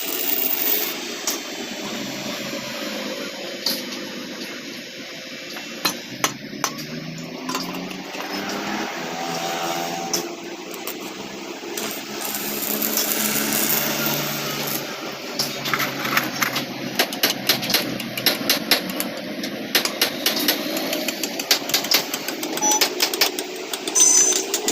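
A small machine hums steadily while metal parts are worked on, with many sharp metallic taps and clinks that grow frequent in the second half, as in hammering or fitting a motorcycle swing-arm bush.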